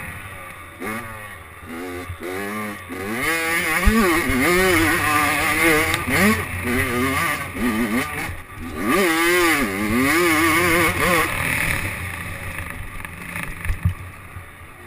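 Motocross dirt bike engine revving, its pitch rising and falling over and over as the bike rides. After about eleven seconds it drops to a quieter, steadier drone.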